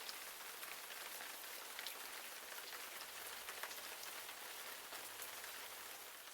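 Steady rain falling, an even hiss with many small drop ticks, beginning to fade out at the very end.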